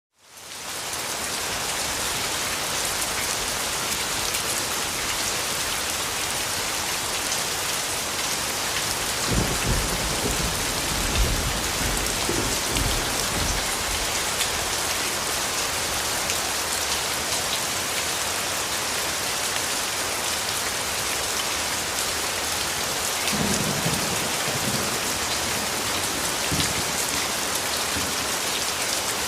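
Steady, heavy rainfall hissing on surfaces, fading in from silence within the first second. Low rolls of thunder rumble under it about a third of the way in and again near the end.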